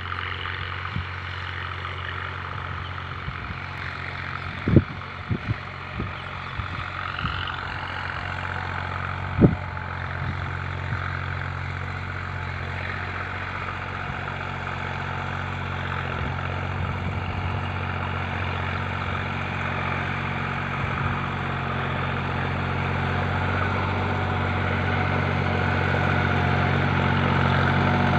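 Deutz-Fahr Agrolux 45 4WD tractor's diesel engine idling steadily, growing gradually louder toward the end. A few sharp knocks sound around five seconds in, and a single loud one near nine seconds.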